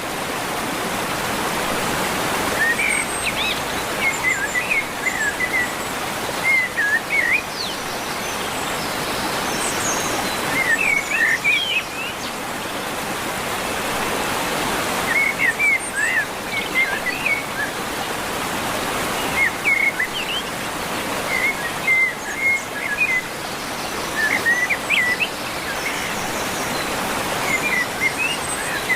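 A songbird singing short chirping phrases, repeated every few seconds, over a steady rushing background noise.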